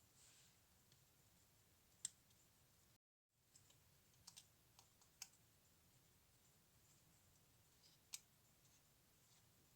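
Near silence with a few faint, sharp clicks and taps scattered through it, like small parts being handled; the sound drops out completely for a moment about three seconds in.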